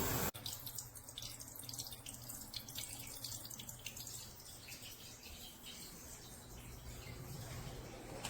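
Water draining from a water heater during a sediment flush. A loud rushing flow cuts off abruptly just after the start, leaving a quiet trickle with faint, irregular dripping ticks.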